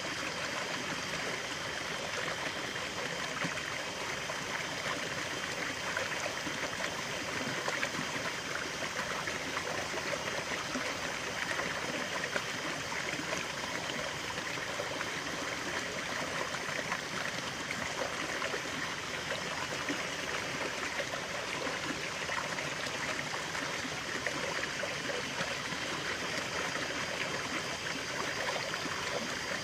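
Running water of a stream, a steady babbling flow with no break.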